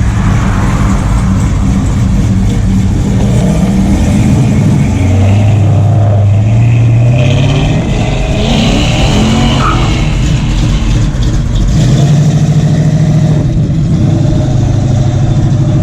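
Car engine running loudly, its pitch dropping and rising a few times and settling higher near the end.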